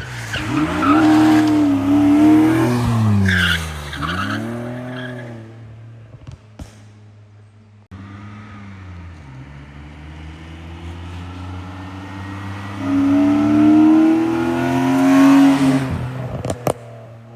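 BMW M54B25 2.5-litre straight-six with an N54 intake manifold revving hard in two bursts while the car drifts, with tyres squealing in the first. The revs swing up and down from about a second in, then climb steadily again from about ten seconds in before dropping off near the end.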